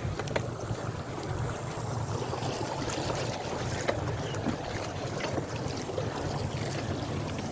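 Wind buffeting the microphone on a moving bicycle, over a steady rumble from the tyres and frame on a rough, muddy road, with scattered small clicks and knocks.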